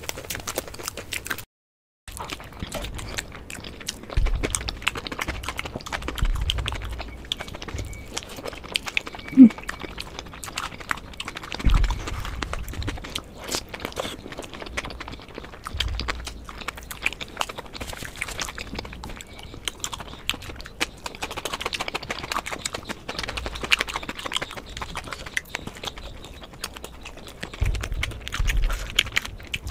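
Close-miked chewing and crunching of Indian chaat topped with crispy sev, as a series of short crisp crunches with soft low thumps. There is a brief dropout to silence about two seconds in.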